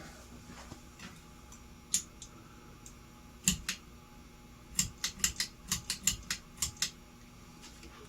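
Sharp clicks: a few scattered ones, then a quick run of about ten over two seconds, as the fan and its controls are handled during a test.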